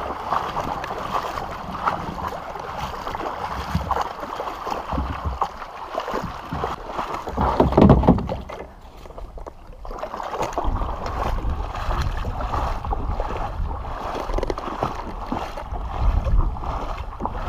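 Water splashing and sloshing irregularly around a kayak as it moves along a river, with one louder surge about eight seconds in.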